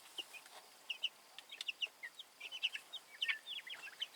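A flock of two-week-old Cornish Cross broiler chicks peeping: many short, high cheeps overlapping, busier in the second half.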